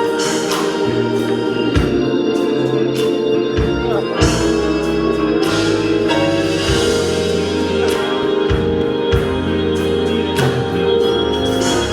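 Gospel organ music: held chords on an electric organ, with regular percussive hits underneath.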